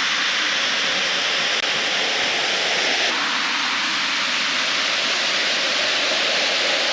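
Fast-flowing creek water rushing steadily, a continuous even hiss of a stream in high flow.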